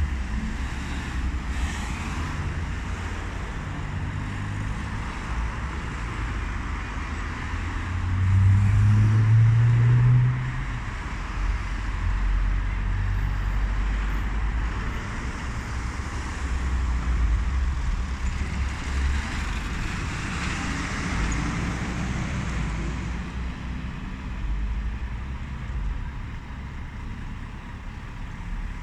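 Heavy truck engine and road traffic rumbling steadily, with an engine note rising and getting louder about eight to ten seconds in.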